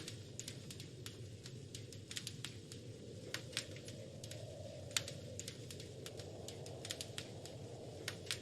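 Wood fire crackling in a fireplace: irregular sharp pops and snaps, one louder snap right at the start and another about five seconds in, over a steady low rush of the flames.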